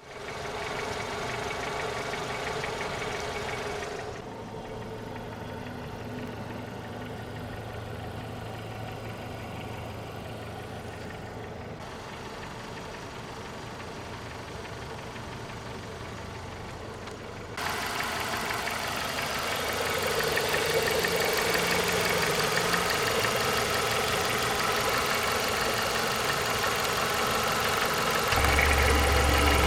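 Renault Megane II's K4M 1.6 16-valve petrol engine idling with a chirring, grasshopper-like chatter under the bonnet. It gets noticeably louder about 18 seconds in.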